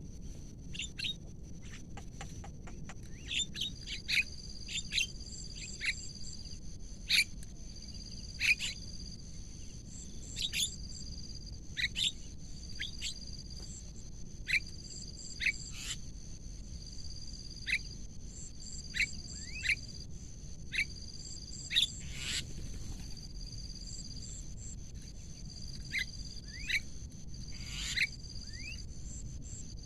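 Bird calls: short, sharp chirps that sweep downward, repeated irregularly, some louder than others. Beneath them runs a steady high-pitched drone, with a second tone just below it pulsing on and off.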